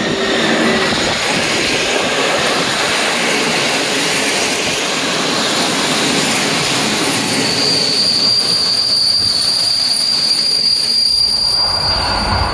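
A passenger train led by an SU160 diesel locomotive rolling past, with loud, steady noise from wheels on rails. About seven seconds in, a high, steady wheel squeal joins it and lasts to the end.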